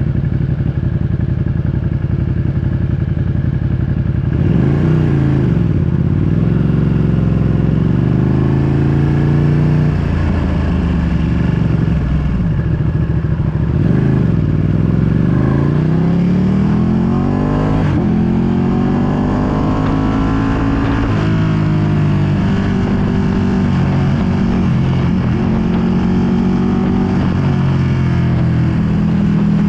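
2020 Ducati Panigale V2's 955 cc L-twin engine through a full Akrapovic exhaust, riding at a steady pace. About four seconds in the revs drop and climb again, with more dips and rises through the middle, then a run of rising revs as it accelerates through the gears before it settles to a steady cruise.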